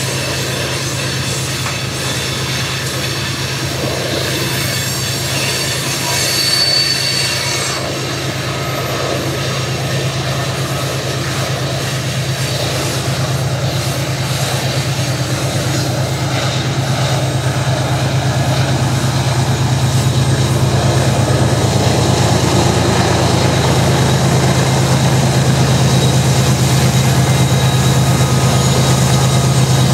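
Loaded coal hopper cars rolling around a curve, with a high wheel squeal a few seconds in. The diesel engine of an approaching mid-train helper locomotive grows steadily louder through the second half.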